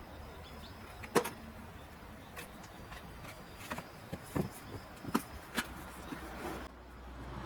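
A series of short light clicks and knocks, the loudest about a second in, over a low steady hum: handling noise as equipment is set up.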